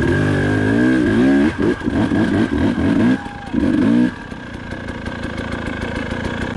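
Dirt bike engine revving hard in several quick bursts, the pitch rising and falling, then dropping to a steadier, lower running note about four seconds in.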